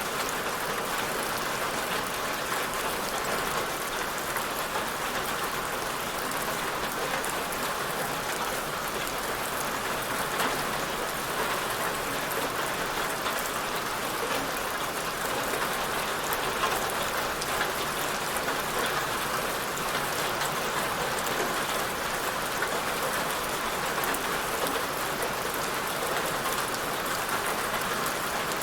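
Steady rain falling, an even hiss with many small droplet patters, no letup or change.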